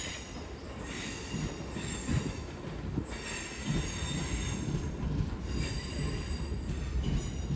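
Class 465 Networker electric multiple unit screeching as it pulls into the platform: several high squealing tones that fade in and out over the train's low rumble.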